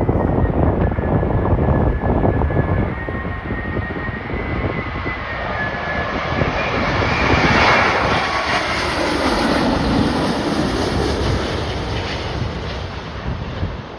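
Jet airliner passing close by: a rising engine whine and rush that peaks about eight seconds in, then drops in pitch and fades as it goes past. Strong gusty wind buffets the microphone throughout.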